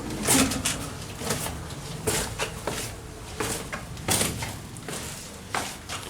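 Footsteps on rough stone ground, a scuffing step about every half second.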